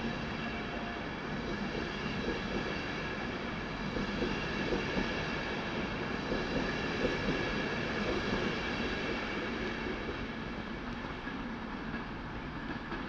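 LNER InterCity 225 electric train's coaches rolling past as the train pulls out. Wheels rumble with light knocks over rail joints, loudest in the middle, then the sound eases away as the last coach passes.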